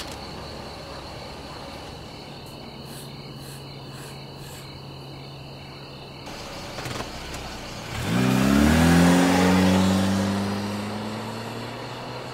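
A car engine starts about eight seconds in, revs up quickly and settles into a steady run, growing fainter over the last couple of seconds. Crickets chirp steadily in the background.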